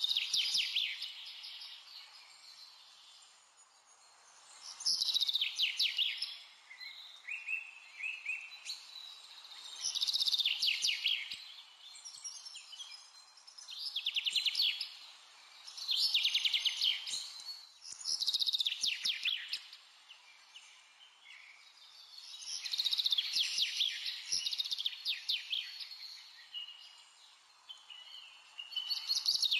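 Songbird singing: bursts of rapid, high chirping trills, each a second or two long, repeating every few seconds over a faint steady hiss.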